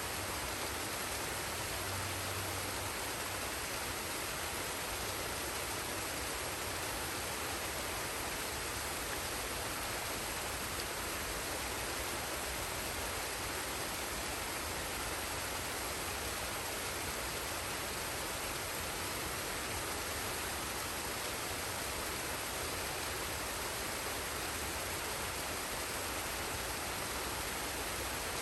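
Forest waterfall and stream: water falling and rushing in a steady, unbroken hiss.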